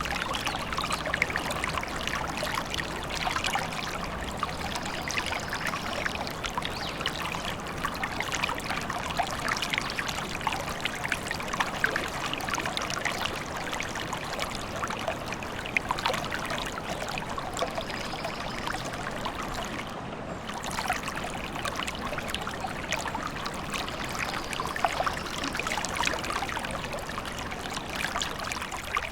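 Small forest stream trickling and babbling over stones, a steady, dense splashing, with a few faint high bird calls now and then.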